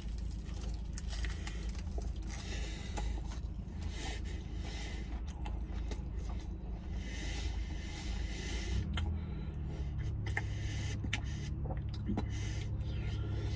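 A man eating a flaky puff-pastry bake close to the microphone, with irregular chewing, mouth and breath noises. Under it runs a low steady hum of a car interior, which grows a little stronger and steadier about two-thirds of the way in.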